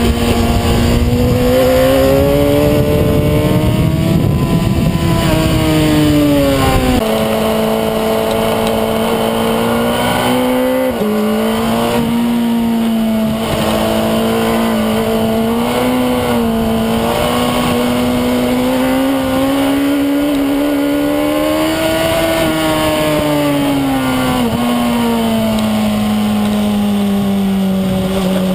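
Suzuki GSX-R sport bike's inline-four engine running hard on track, its pitch rising and falling smoothly as the throttle opens and closes through the corners. A heavy rush of wind noise sits under it and drops away about seven seconds in.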